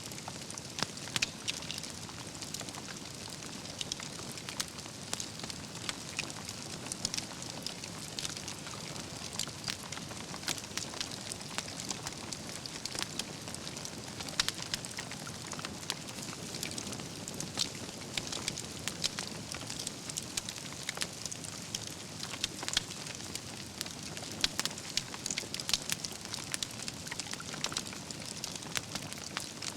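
Wood fire burning, with a steady hiss and frequent sharp crackles and pops from the burning logs.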